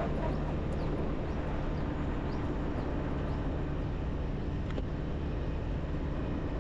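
Motorbike running steadily while riding through city traffic, its engine hum under steady road noise.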